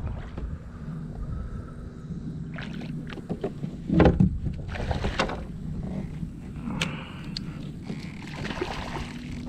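Knocks, thumps and short splashy rustles on a fishing kayak while a hooked fish is brought in, the loudest a thump about four seconds in, over a steady low rumble.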